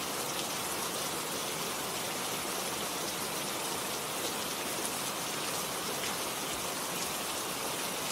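Steady rainfall: an even hiss of many drops, with a few sharper drop hits standing out.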